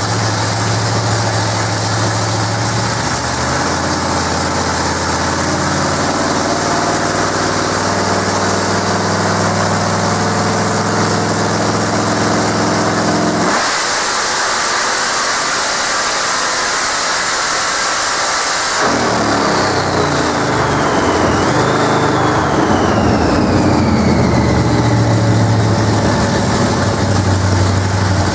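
Supercharged 440 big-block V8 in a Plymouth Satellite on a chassis dyno, running rough and low, then about halfway through opening up into a full-throttle pull of roughly five seconds. A long falling whine follows as the engine and dyno rollers spin down, and it settles back to idle.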